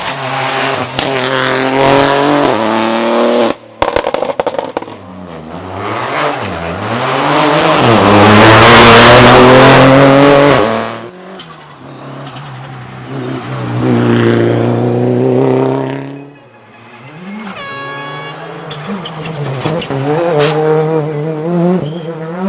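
Rally car engines revving hard and changing gear as they pass, the engine note rising and falling several times. There is a quick burst of sharp cracks about four seconds in, and the loudest moment is a rushing close pass in the middle.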